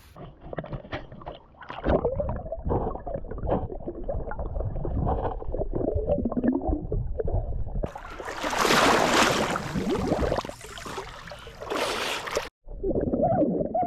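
Water splashing and gurgling, broken into several edited segments. From about eight seconds in there is a louder hissing splash, which cuts off suddenly near the end and gives way to a steady humming tone.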